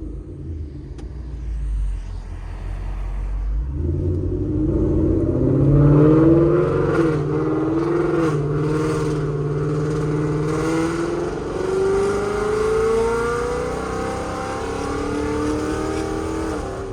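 Straight-piped Ford Mustang GT's 5.0 V8 with long-tube headers idling low, then pulling hard from about four seconds in. Its note climbs in pitch through the gears, dropping briefly at each of a few upshifts.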